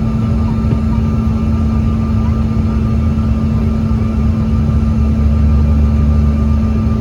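Airliner cabin noise heard from a window seat: the engines running with a steady low rumble and a constant hum, the low rumble swelling slightly about five seconds in.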